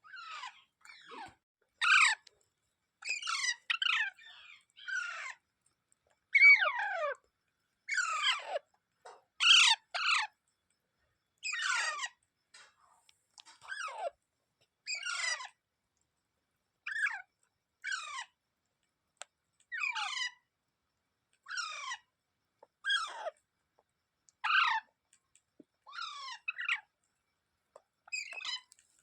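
Indian ringneck parakeet calling: a long series of short, harsh calls, each falling in pitch, about one a second with short gaps between.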